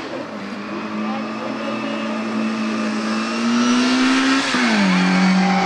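Classic Mini rally car's engine pulling hard at high revs, its pitch climbing slowly, then dropping sharply about four and a half seconds in as it shifts up and pulls on.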